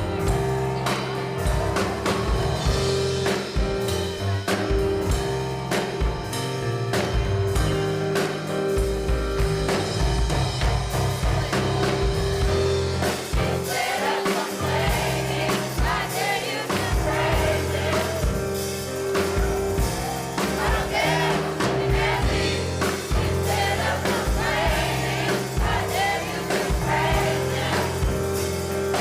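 Live gospel music: a youth choir singing over a band with bass and drums. The voices come forward about halfway through.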